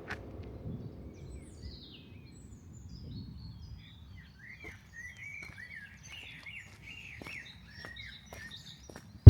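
Small songbirds chirping and warbling outdoors: a run of quick, high, bending notes that starts about a second and a half in and grows busier past the middle, over a low steady background rumble.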